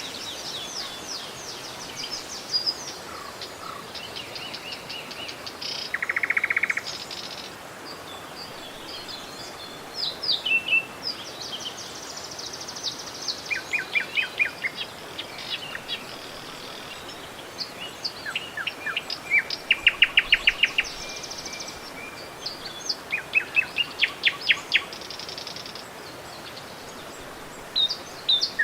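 Several songbirds singing and calling in quick chirps and rapid trills, over the steady rush of a river.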